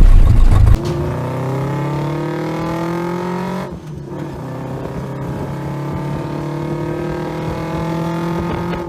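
Vintage car engine pulling hard under acceleration, its pitch rising steadily, after a loud rush of noise in the first second. There is a brief dip in level about four seconds in, and then it climbs again until it cuts off.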